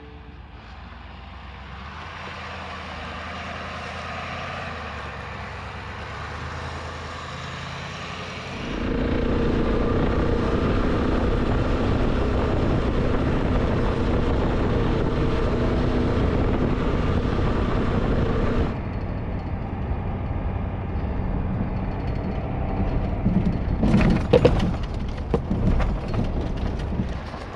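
Off-road vehicle driving on a rough desert trail: steady engine and road noise that changes abruptly between shots, with a cluster of knocks and rattles near the end.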